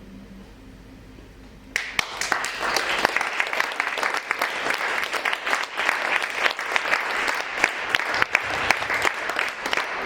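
The last of the dance music dies away, then audience applause breaks out suddenly about two seconds in and keeps going as steady, dense clapping.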